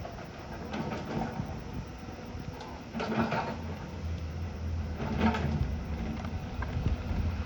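Heavy earthmoving machine's diesel engine running under load, a low rumble with noisy surges about every two seconds.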